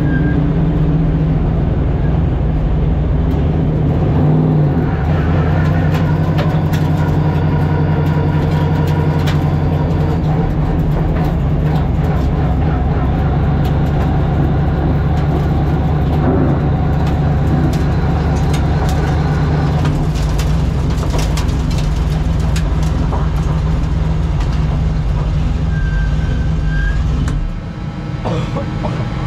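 Pro Late Model stock car's V8 engine idling steadily, heard from inside the cockpit. The engine note shifts and briefly drops in level near the end.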